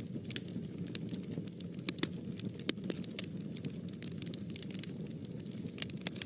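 Fire burning in a fireplace, crackling with many sharp, irregular pops over a low, steady rumble of flame.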